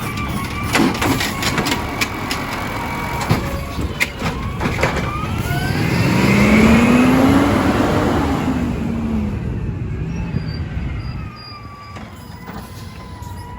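Garbage truck working: a few sharp knocks and clanks in the first seconds, then the engine revs up and eases back down over about four seconds, loudest about halfway, before dropping quieter near the end.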